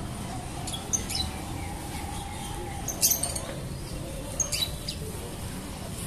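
Short, high bird chirps a few times, over a low steady rumble of a bus engine.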